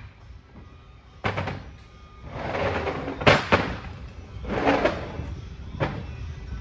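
Hammer strikes driving a countershaft bearing down onto an Eaton Fuller RTO16909ALL transmission shaft. There are four sharp metal blows, two of them in quick succession near the middle, with clatter of parts being handled in between.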